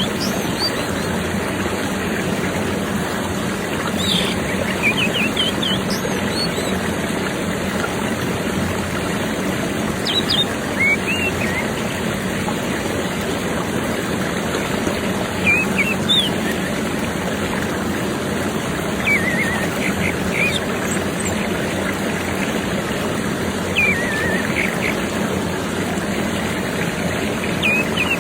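Orange-headed thrush (anis merah) calling in short, high chirping phrases, one about every four to five seconds, over a steady rushing background noise. This is a lure recording meant to prompt a silent captive thrush to sing.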